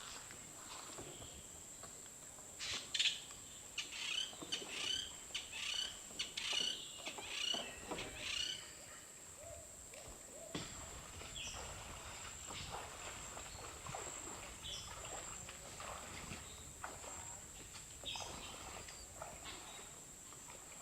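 A bird calling in a quick series of about a dozen short, similar notes over some six seconds, then a few scattered fainter chirps, over a steady high-pitched drone.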